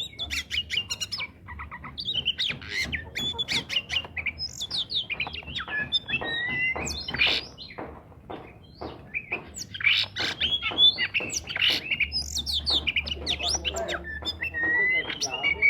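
Oriental magpie-robin in full song: a fast, varied, almost nonstop stream of chirps, harsh squawky notes and short whistled slides, with a couple of brief pauses.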